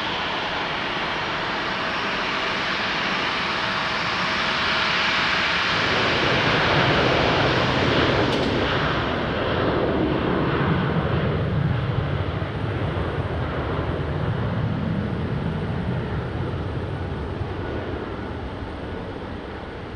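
Jet airliner passing close by. The engine noise swells to a peak about halfway through, its high hiss dropping away as the plane goes past. A deeper rumble is left, which slowly fades.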